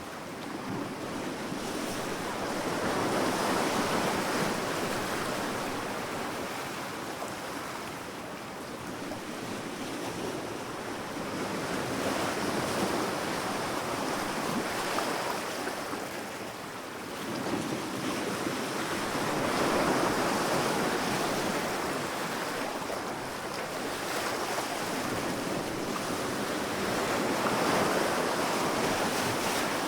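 Sea waves breaking and washing up a sandy beach, the surf swelling and ebbing in slow surges about every eight seconds.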